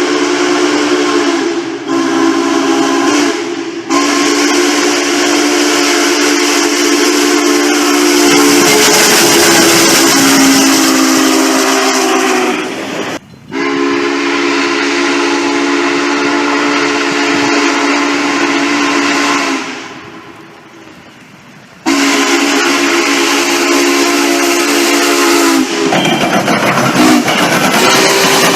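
Steam locomotive whistle with a low chime of several notes, blown in a series of long blasts separated by short breaks, with steam hissing. A brief short blast comes a couple of seconds in, and the train's running rumble comes through near the end.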